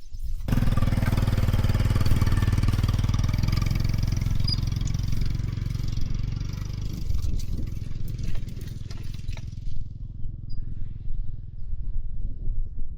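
Motorcycle engine starting about half a second in and then running steadily with a deep, even rumble; the higher part of the sound fades out about ten seconds in while the low engine note carries on.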